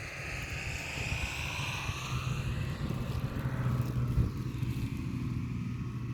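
A motor engine running, its steady low hum growing louder toward the middle, with higher tones that slide down in pitch as it goes by.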